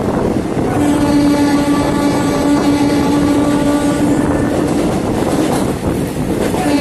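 Express train running at speed, heard from an open coach door: loud rumble of wheels on rail and rushing wind as it runs through a tunnel and out into the open. A steady pitched tone sounds over the noise from about a second in, fades out around five seconds and comes back near the end.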